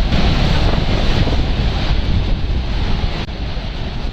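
Steady roar of Niagara's Horseshoe Falls heard from the tour boat close to the falls, with wind buffeting the microphone. It eases slightly about three seconds in.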